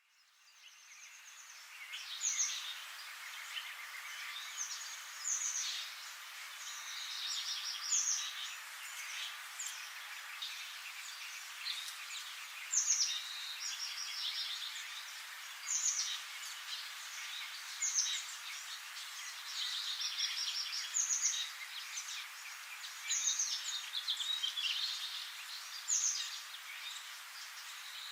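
Songbirds singing: short high chirps and trills repeating every two to three seconds over a steady background hiss, fading in over the first two seconds.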